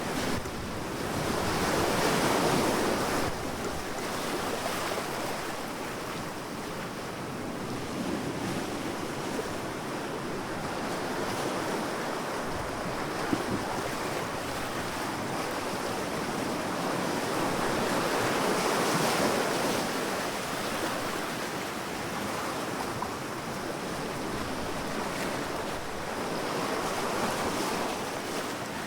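Sea waves breaking and washing onto a sandy beach, a continuous surf that swells louder and eases off in slow surges: about two seconds in, again around eighteen to twenty seconds, and near the end.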